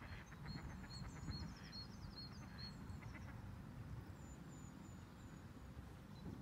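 Wild birds calling: one small bird repeats a short high note about twice a second for the first few seconds, with other birds trilling and giving higher falling notes, over a low steady rumble.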